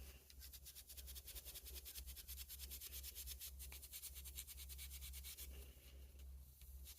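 Fast, even back-and-forth rubbing strokes on a pocket knife by hand, a scrubbing or sanding sound during its cleanup.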